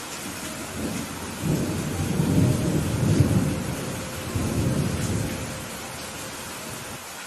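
Steady rain with a roll of thunder. The thunder builds about a second and a half in, rumbles low and heavy in two swells, and dies away a few seconds later, leaving the rain.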